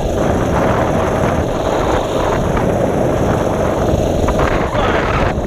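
Mini bike's small engine running steadily as the bike rides along, mixed with wind buffeting the GoPro's microphone.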